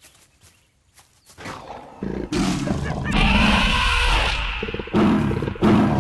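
A large wild animal's loud roaring, starting suddenly about two seconds in after a near-quiet stretch with a few faint clicks.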